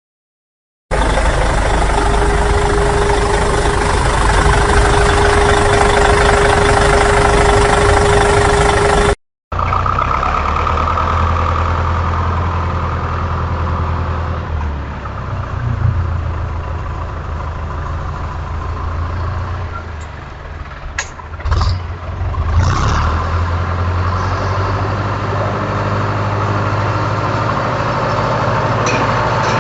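Heavy road construction machinery with its engine running, in two clips: first a steady engine drone with a held whine, then, after a sudden cut, a low engine hum with a few short clanks partway through.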